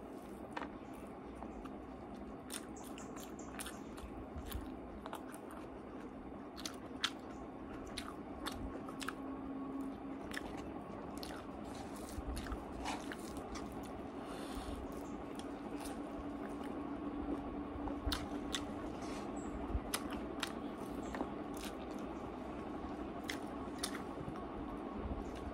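A person chewing food close to the microphone, with many short sharp mouth clicks.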